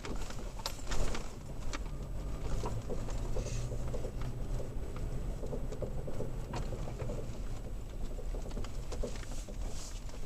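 Toyota Tacoma heard from inside the cab on a rough dirt road: a steady low engine and road rumble with irregular knocks, clicks and rattles as the truck jolts over the bumps.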